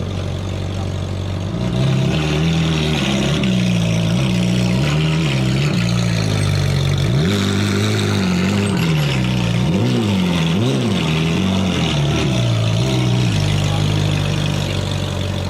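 A car engine revved repeatedly through its exhaust while standing: it idles, then rises and falls in a series of revs with a few quick sharp blips, and settles back to idle near the end.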